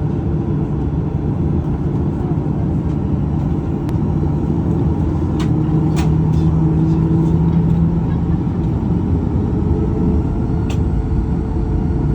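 Steady cabin rumble and hum of a Boeing 737-800 on the ground, its CFM56 engines at low power, with an engine tone that swells slightly in the middle. A few faint clicks.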